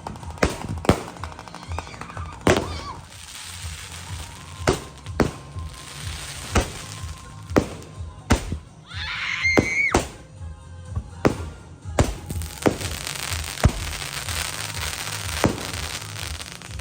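A consumer fireworks cake firing: sharp shot bangs at an irregular pace, one to three a second, with crackling between them. Music plays underneath.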